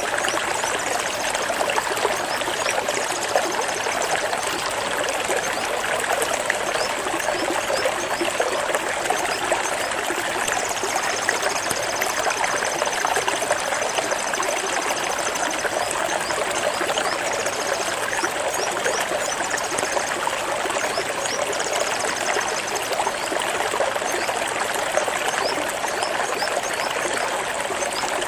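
Water running and splashing over rocks in a stream, a steady, even rush that does not change.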